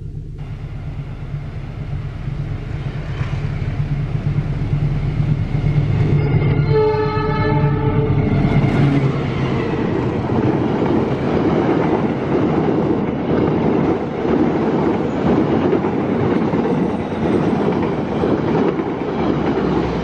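Diesel-electric passenger locomotive approaching with its engine running, sounding its horn for about a second and a half about six and a half seconds in as it passes. Then the coaches rush past at speed, the wheels clacking over the rail joints.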